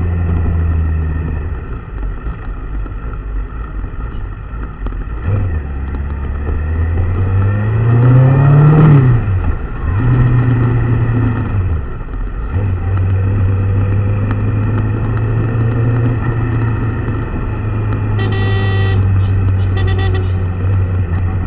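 Motor vehicle engine running steadily, revved up once about nine seconds in and dropping back, with a shorter rev just after. Two brief high tones near the end.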